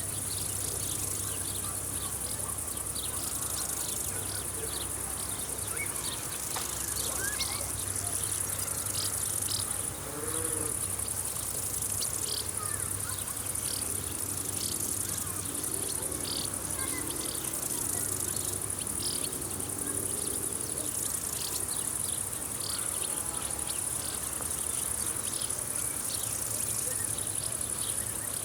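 Insects in a summer field: a steady, very high-pitched trill, with short chirps repeating about once a second.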